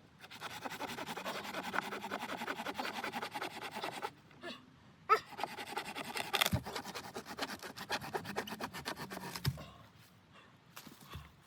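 Rapid rasping or scraping strokes on wood in two long bouts of about four seconds each, with a short pause and a single knock between them.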